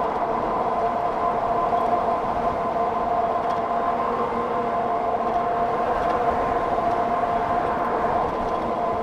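Electric motor of a 60-volt e-bike whining at a steady pitch while riding at speed, over a constant rush of wind and road noise.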